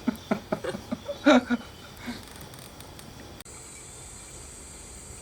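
A few short spoken sounds from voices in the first second and a half. After an abrupt cut a little over three seconds in, a steady high-pitched insect chorus, typical of crickets, carries on.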